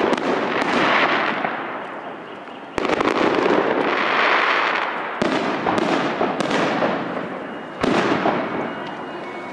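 Fireworks salute shells bursting: sudden loud bangs about 3, 5 and 8 seconds in, each fading away over a couple of seconds, with sharp pops scattered between.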